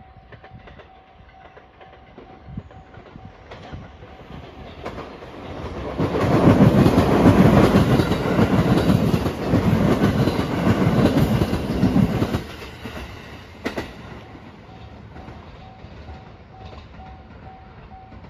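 A Marine Liner rapid electric multiple-unit train passing at speed: a rush of wheel and rail noise with clattering over the rail joints grows over a couple of seconds, stays loud for about six seconds, then cuts away quickly. Near the end a level crossing bell rings faintly in a steady repeating pattern.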